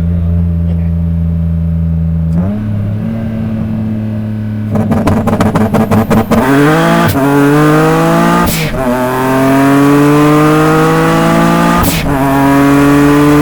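Single-turbo Nissan 350Z V6 engine on a full-throttle pull: after a few seconds of steady running and a brief fluttering stutter, the revs climb hard, break sharply at a gear change, climb again, shift again, and climb once more.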